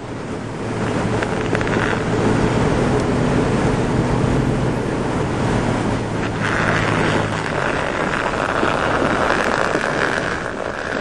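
Jeep engine running at a steady pitch under strong wind noise on the microphone. About six and a half seconds in, a louder hiss comes up as the engine note fades.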